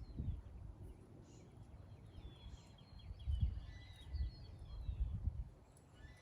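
Small birds chirping in quick series of short descending notes, over irregular low thuds and rumbles.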